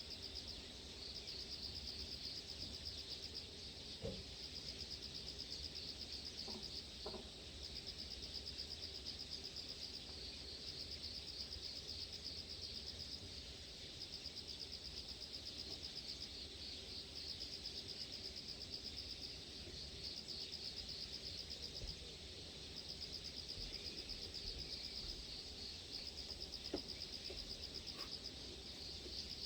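Insect chorus: a steady, high, pulsing trill over a low rumble of wind, with a few faint short calls about 4, 7 and 27 seconds in.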